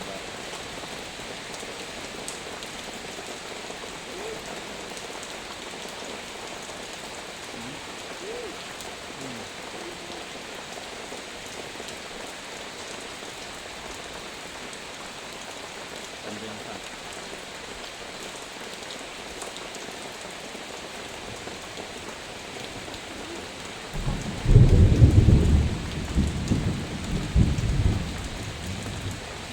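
Heavy rain falling steadily, with a low rumble of thunder breaking in about 24 seconds in and rolling for several seconds before dying away.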